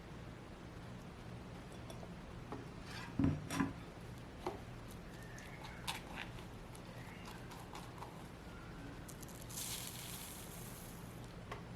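Cooking utensils being handled: two knocks a little after three seconds in, then a few lighter clicks, and a brief hiss near the end, over a steady low hum.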